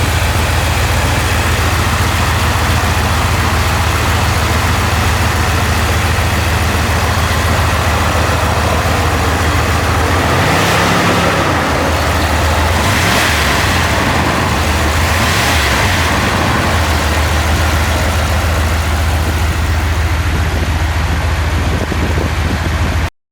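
1993 Dodge Ramcharger's V8 engine idling steadily, with three short throttle blips in the middle that raise the revs briefly before it settles back to idle.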